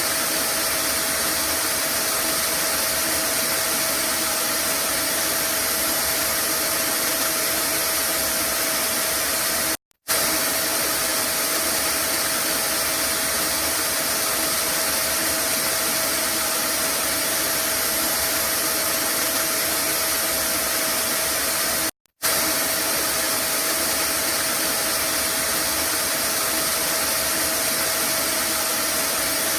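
Vacuum cleaner motor running steadily: a dense, even rushing noise with a steady whine in it. Twice, about ten and twenty-two seconds in, it cuts out for a split second and comes straight back.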